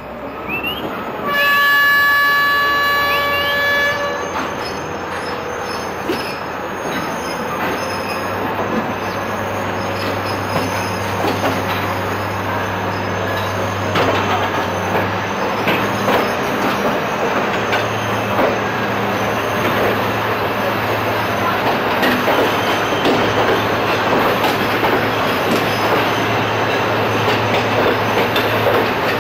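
A train's horn sounds one steady blast lasting about three seconds, starting about a second in. The train then runs on with a low steady drone and the rapid clicking of its wheels over the rail joints.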